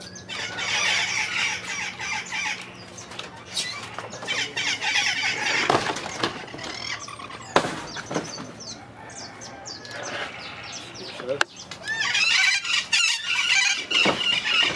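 Birds in an aviary squawking and screeching in harsh, chattering bursts, the loudest burst near the end, with a couple of sharp clicks in between.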